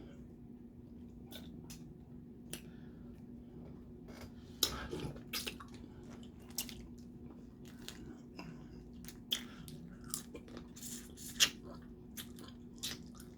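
Close-miked eating of boiled crawfish and crab: irregular crackles and cracks of shell being broken, with chewing, biting and wet sucking sounds, busiest about four to five seconds in and again from about nine seconds on.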